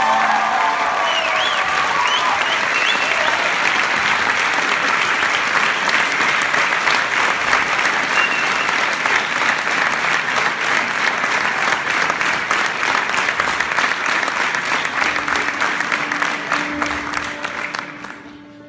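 Audience applauding and cheering after a live song, with a few whistles in the first few seconds; the applause dies away near the end.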